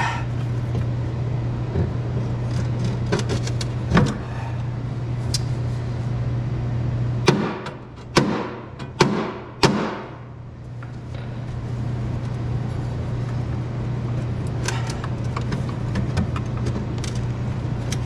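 Hand tools clinking and knocking on the pressure washer's metal parts while working a stubborn bolt, with a cluster of sharper knocks about seven to ten seconds in, over a steady low hum.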